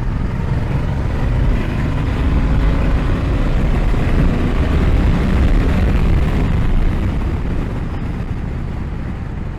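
Riding noise from a 2020 Honda Africa Twin DCT: the 1084 cc parallel-twin engine under way with heavy wind rumble on the action-cam microphone. The noise swells toward the middle and eases off near the end.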